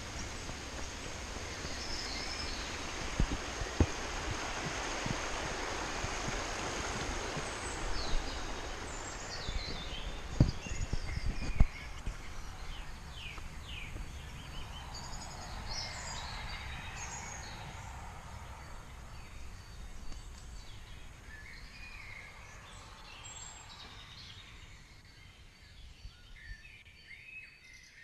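Songbirds chirping and singing with many short calls, over a steady rushing noise that is strongest in the first half and fades away. A few sharp knocks on the camera come about three seconds in and again around ten to twelve seconds in.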